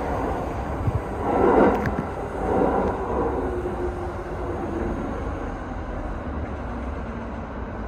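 Running noise of an E217-series electric train pulling into a station, heard from the driver's cab: a steady rumble of wheels on rail. There is a louder swell about a second and a half in and a faint held tone a little later, and the noise eases slightly as the train slows.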